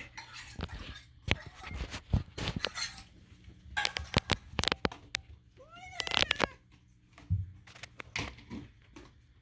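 A domestic cat making short, strange arching meow-like calls about six seconds in, after a busy run of sharp clicks and knocks.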